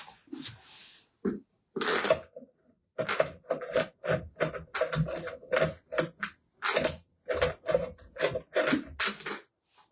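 Rapid run of clattering knocks and rattles of hard parts being handled and fitted together, many of them carrying a ringing tone.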